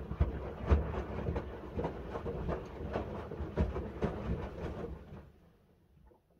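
Miele W1 front-loading washing machine's drum turning a wet load of linen bedding: a low rumble with irregular thuds as the laundry tumbles. About five seconds in, the drum stops and it goes almost quiet.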